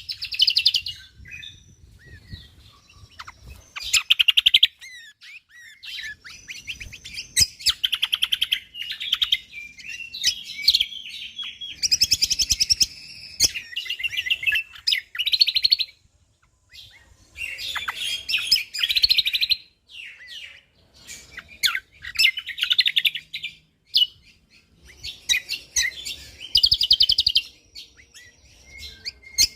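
Cucak kombo (kecial kombok) songbird singing in dense, rapid bursts of high-pitched chirps and trills. The phrases come in runs of one to three seconds with short pauses between them.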